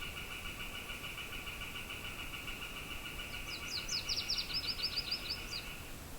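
A songbird sings a quick series of about a dozen sharp, high down-slurred notes. They come over a steady, finely pulsing buzz that stops near the end, with a low wind rush underneath.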